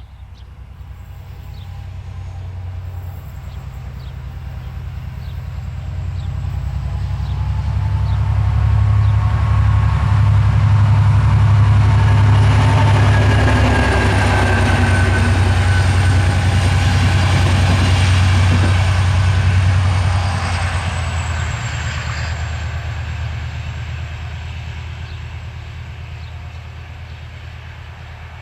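An EMD GT22HW diesel-electric locomotive hauling a passenger train passes by. Its deep engine drone and the rolling of the train grow louder, are loudest in the middle, then fade away as it moves off.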